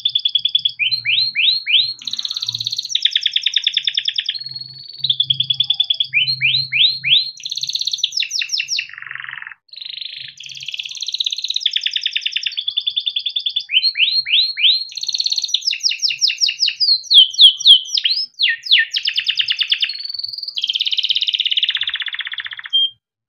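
Yellow canary singing a long, continuous song of fast trills, rolls and quick runs of sweeping notes. The song stops abruptly near the end.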